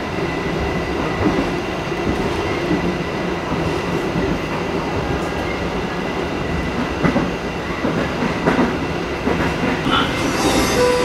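Steady rolling rumble of a moving passenger train heard inside a 2016 INKA executive coach, with a few light clicks of the wheels over rail joints.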